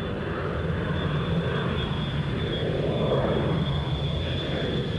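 Jet airliner engines giving a steady rumble, with a thin high whine running through it.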